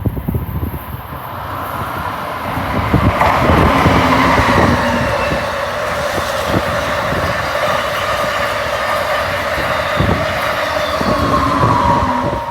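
Amtrak passenger train with an ACS-64 electric locomotive at each end passing by: a loud, steady rumble of wheels on rail with clicks as the wheels cross rail joints, and a high whine that dips in pitch near the end.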